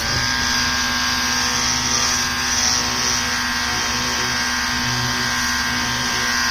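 Ryobi cordless pressure washer running and spraying: a steady motor-and-pump hum under the hiss of the water jet, starting abruptly and holding steady.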